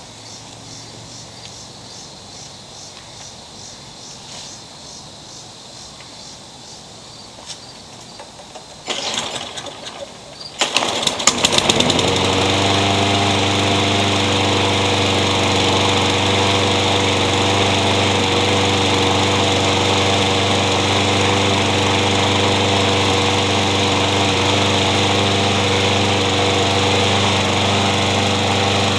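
Yard Machines walk-behind lawn mower engine being started after a tune-up: a short noisy burst from the starter about nine seconds in, then the engine catches about eleven seconds in and settles into a steady, even run.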